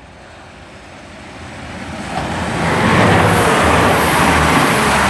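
Class 172 Turbostar diesel multiple unit approaching and passing close by, its engine and wheel noise on the rails swelling to loud about three seconds in and staying loud.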